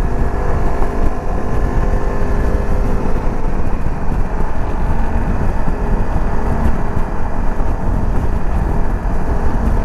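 Dirt bike engine running at a steady pitch while riding, under heavy wind rumble on the microphone.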